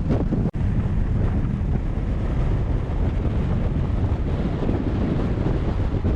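Strong gusty wind buffeting the microphone: a steady, loud low rumble that drops out for an instant about half a second in.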